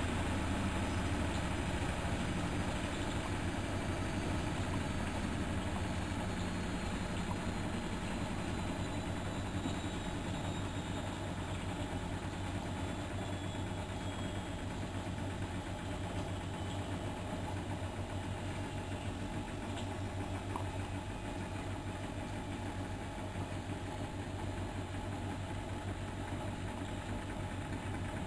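Miele Novotronic washing machine running with a steady low hum and drum noise. A faint high whine slowly falls in pitch through the first half.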